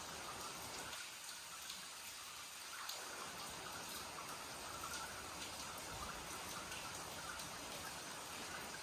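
Steady rain falling, with scattered drops pattering and dripping close by.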